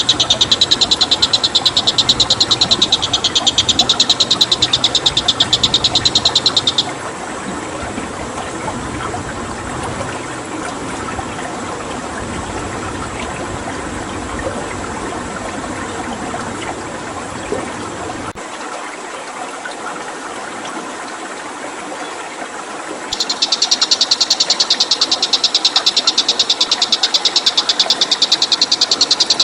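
Flowing water running steadily, with a high, fast, evenly pulsing trill over it for about the first seven seconds that stops and returns about six seconds before the end.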